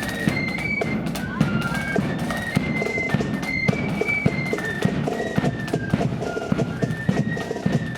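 Marching flute band playing a tune: a high flute melody over steady, heavy bass drum and snare drum beats.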